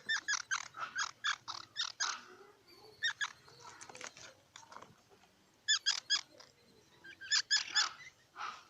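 Squirrel calling in bouts of short, sharp chirps: a fast run of about eight at the start, then pauses broken by single calls and quick groups of three or four.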